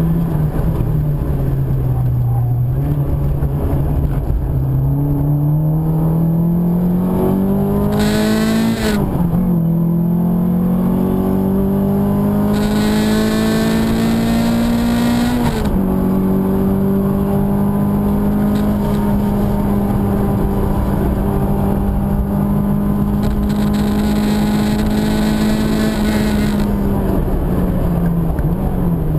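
Car engine heard from inside the cabin while lapping a wet circuit, pulling through the gears. The pitch climbs and drops sharply at upshifts about nine and sixteen seconds in, then holds steady before easing off near the end, with a hiss rising and falling on top.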